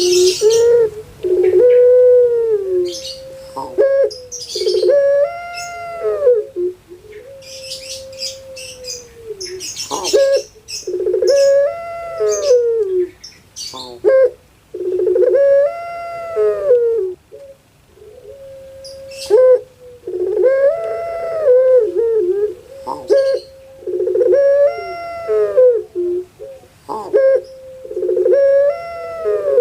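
Puter pelung dove (Streptopelia risoria) cooing: a series of long, drawn-out coos that swell and fall in pitch, about one every three to four seconds. Small birds chirp over the first ten seconds or so.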